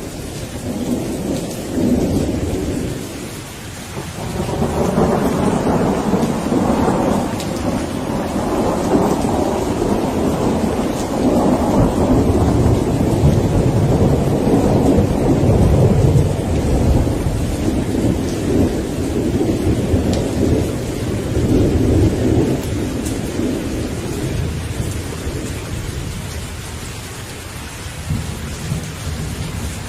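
Steady rain with a long, low roll of thunder that builds about four seconds in, rumbles loudest midway and dies away near the end.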